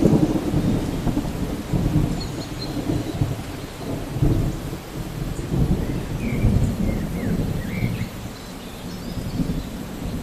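Thunder rumbling low in waves over steady rain, slowly dying away toward the end.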